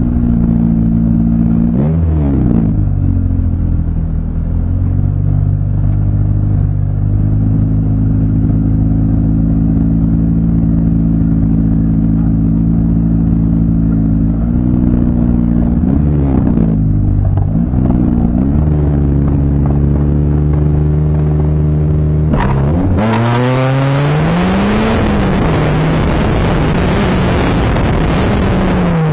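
Gymkhana car's engine heard from inside the cabin. It runs steadily with a few short blips of the throttle, then from about 23 s in it is driven hard: the engine revs up and down under a sudden loud rushing noise.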